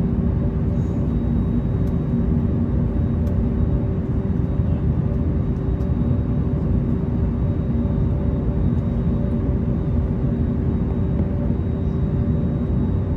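Airbus A321 cabin noise on the ground before takeoff: the jet engines running at idle, a steady rumble with a constant hum of several steady tones over it.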